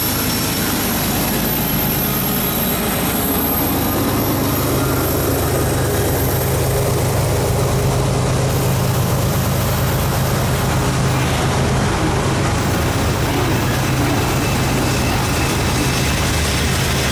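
Freight train passing close by. The trailing diesel locomotive goes by first, then the loaded cars follow, their steel wheels running on the rails in a loud, steady rumble.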